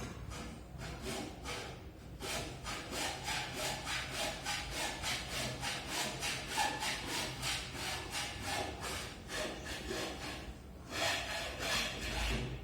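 Hand saw cutting through wood in quick, regular back-and-forth strokes, about three a second, stopping near the end.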